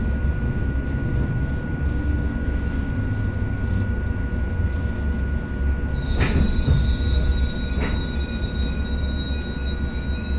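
Passenger train running, heard from inside the carriage: a steady rumble of wheels on rail with a constant mid-pitched whine. From about six seconds in a high thin squeal joins it, along with two sharp knocks about a second and a half apart.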